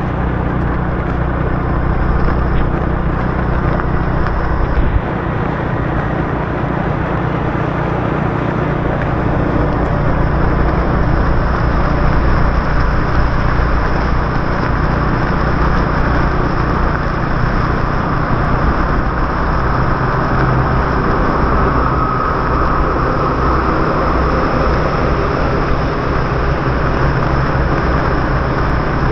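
Motorbike riding on a rain-wet city road, heard from on the bike: the engine running with steady tyre hiss and wind noise.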